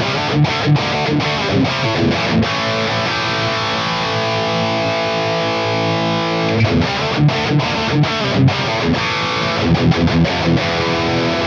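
High-gain distorted electric guitar through a Mooer Brown Sound preamp pedal with its cab sim set to the DV30, playing a riff: choppy muted chugs, then a chord left ringing for about four seconds, then more fast chugging.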